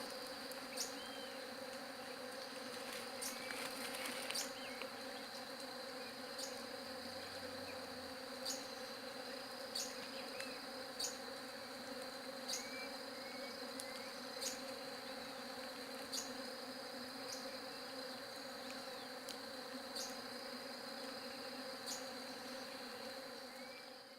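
Bees buzzing as a steady, many-voiced hum, with a steady high-pitched insect tone above it and short high chirps about every second and a half. The sound fades out at the very end.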